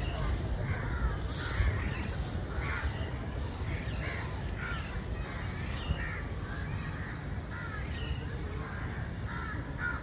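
Birds calling in quick succession, short calls one or two a second, over a steady low rumble.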